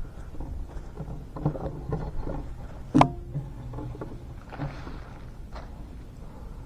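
A series of light knocks and clunks from objects being handled, with one sharp knock about three seconds in, over a steady low rumble.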